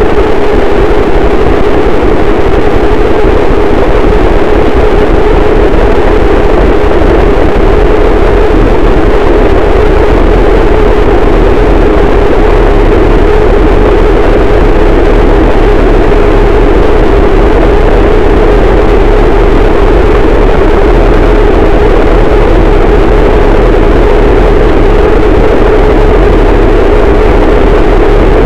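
Harsh noise wall: a dense, unchanging wall of distorted static at full loudness, heaviest in a midrange band, with a deep rumble underneath.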